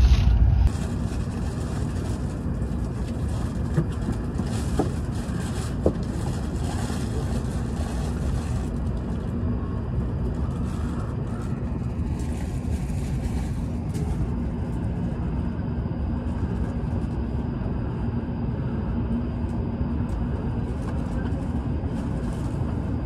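Train running: a steady, even rumble with a faint constant hum, and a few light clicks in the first quarter.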